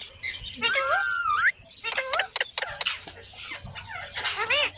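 Pet parrot calling: a short call that glides up and down in pitch about half a second in, a run of short sharp clicks in the middle, and another gliding call near the end.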